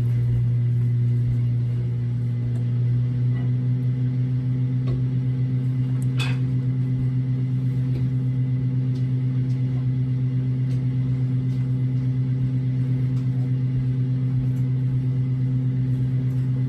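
Steady low electric hum of a running kitchen appliance's motor, which takes on a fast, even pulsing from about three seconds in. A single light click sounds near the middle.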